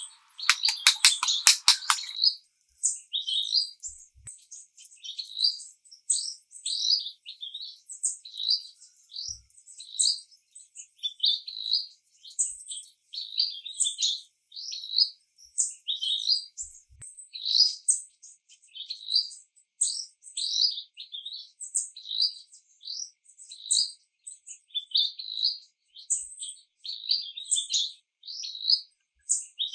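Bird chirping: short, high chirps repeating several times a second. A loud, fast rattle of clicks opens it for the first two seconds.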